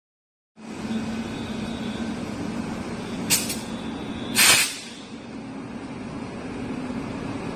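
Diesel multiple unit train with its diesel engine running steadily, and two hisses of compressed air from its air brakes or air system, a short one followed about a second later by a louder, longer one.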